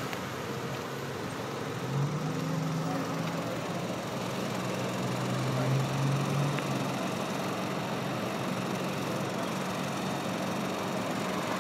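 A motor vehicle engine running at low revs, its low hum strongest from about two to seven seconds in, over steady traffic noise.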